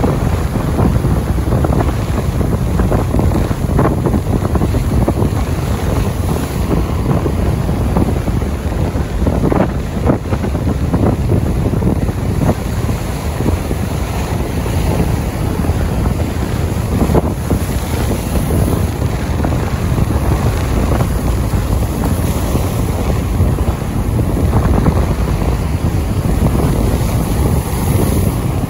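Wind and rain: heavy, steady wind rumbling on the microphone, with a dense patter of raindrop ticks throughout.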